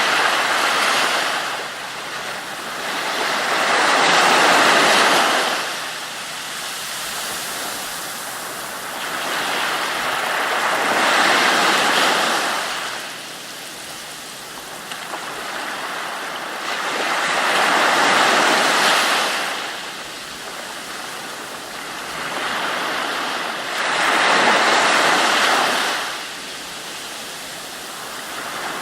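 Ocean surf: waves washing in and drawing back, a loud swell of rushing water about every six seconds with a quieter hiss between.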